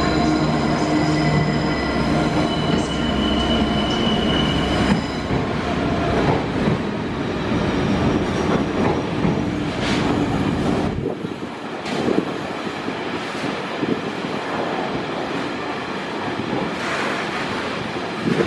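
A Class 66 diesel locomotive with an EMD two-stroke V12 engine passes at the head of an engineering train. Its engine drone and a thin wheel squeal fill the first few seconds. Then the wagons rumble past with knocks from the wheels over the rail joints, and the deep rumble drops away about eleven seconds in.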